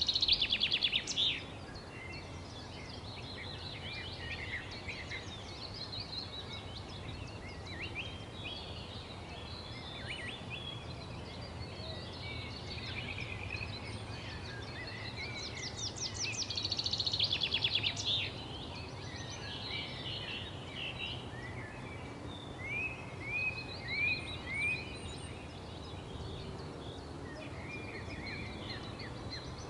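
Several wild songbirds singing and chirping together, with a loud rapid trill right at the start and again about halfway through, and a run of four short down-slurred notes later on. A steady low rumble runs underneath.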